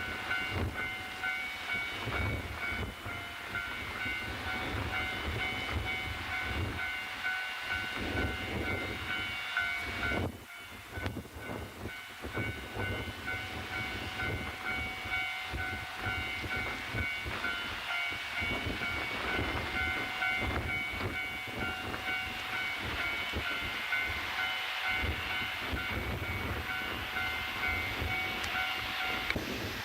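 Strong wind buffeting the microphone over the sound of a JNR diesel train, with a steady high whine that stops near the end.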